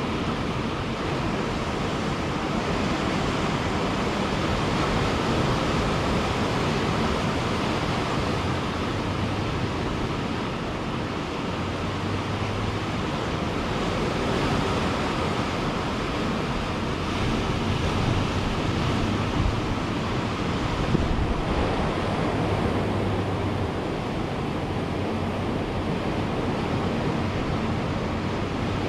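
Ocean surf breaking and washing on a beach, a steady roar that swells and eases gently, with some wind noise on the microphone.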